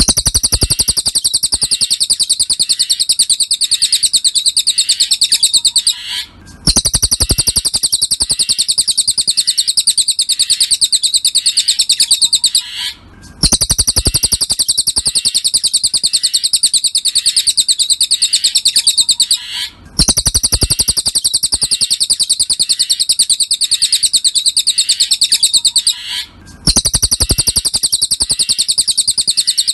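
Cililin songbird song: a rapid, high-pitched run of chirps, repeated in phrases about six seconds long with short pauses between them. It is a looped masteran, a recording played to teach captive songbirds this song.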